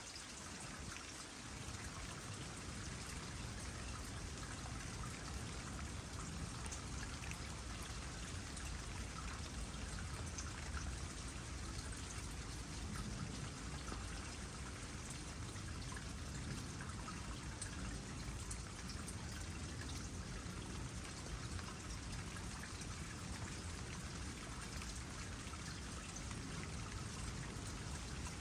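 Water trickling steadily into a small pond, with raindrops falling on the surface.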